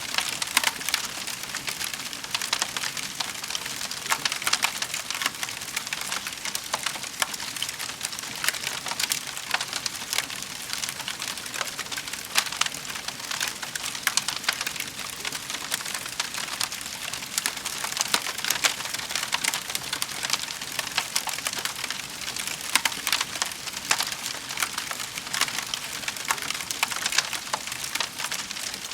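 Wood fire crackling steadily in a fireplace: a dense, unbroken stream of small snaps over a soft hiss.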